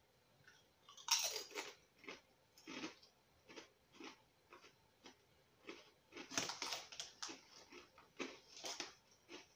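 A person chewing potato crisps in the mouth: a run of short crunches, loudest about a second in and again from about six to nine seconds in.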